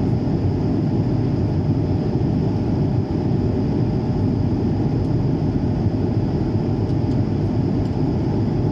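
Airliner cabin noise in flight: a steady low rumble of engines and airflow, with a faint steady high whine above it.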